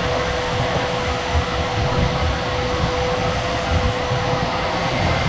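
A power tool's electric motor running steadily: a constant whine over a rushing noise and a low rumble, with no break.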